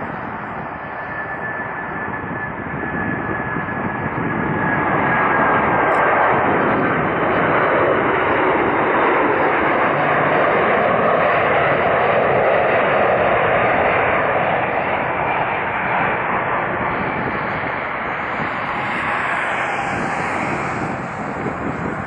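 Boeing 747-400 airliner landing, the noise of its four jet engines swelling to a loud, steady rush as it passes, then easing off. Early on a faint high whine slides slowly down in pitch.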